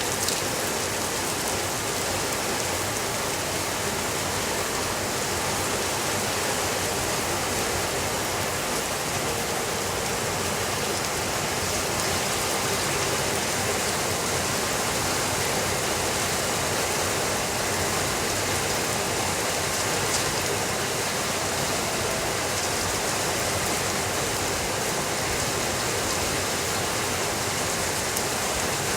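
Steady heavy rain falling on a window, a dense, even hiss with no breaks.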